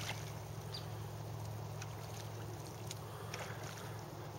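Steady low motor hum of a boat moving on the water, with light splashing and small ticks.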